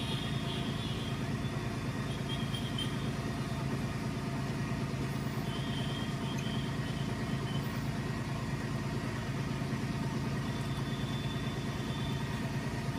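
Renault Kwid's three-cylinder petrol engine idling steadily and evenly, its intake-manifold vacuum leak now sealed.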